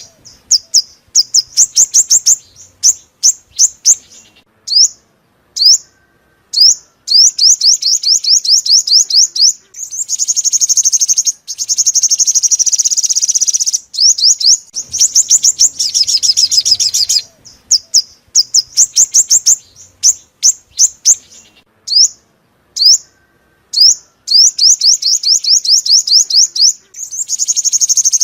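Sunbird song: fast, high, thin trills of rapidly repeated notes, broken by short pauses and single quick up-and-down notes, the phrases repeating over and over.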